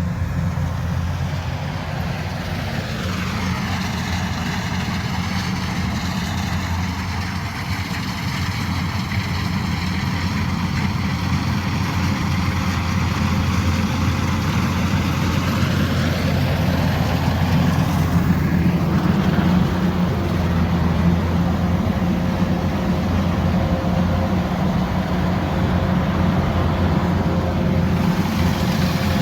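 Combine harvester's diesel engine and machinery running steadily under load, with a wavering higher whine over roughly the first half.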